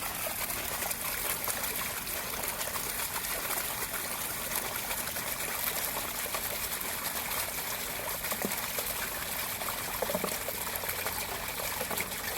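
Stormwater pushed out by a sump pump, flowing steadily out of a pop-up drainage emitter and running downhill.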